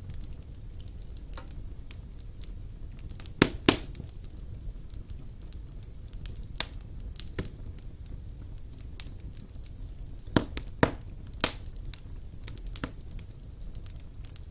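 Wood fire burning in a fireplace: a low steady rumble of flames with irregular sharp pops and crackles of burning logs, the loudest a pair about three and a half seconds in and a cluster near ten to eleven and a half seconds.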